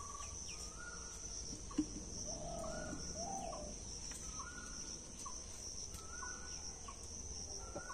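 A bird repeating a short rising call about once a second over a steady high drone of insects, with a lower call twice in the middle and a single click about two seconds in.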